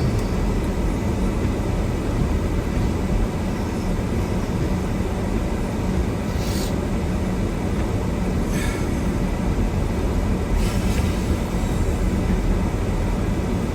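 Steady low rumble of a car driving on a snow-covered road, heard from inside the cabin, with three brief hissing swishes in the second half.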